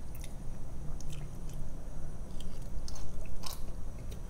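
Close-miked chewing and crunching of tortilla chips with queso, with scattered small clicks of a plastic fork against the metal tray.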